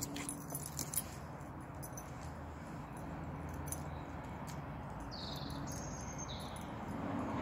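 Dog whining softly in excitement, with a few short, high squeaks about five to six seconds in and faint clicks.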